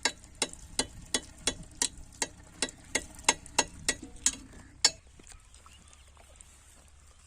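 A quick, even series of about fourteen sharp knocks, roughly three a second, that stops about five seconds in.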